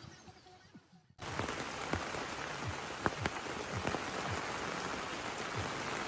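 Heavy rain pattering on a surface: a dense steady hiss full of sharp separate drop hits, starting abruptly about a second in.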